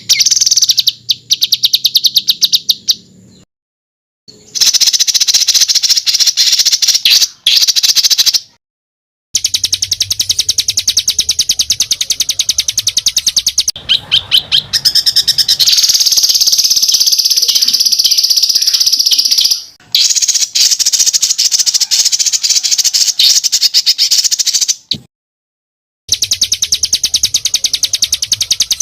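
Songbird masteran recording of harsh, rapid rattling trills: dense rolling phrases of many quick notes a second. The phrases are broken by a few abrupt short silences.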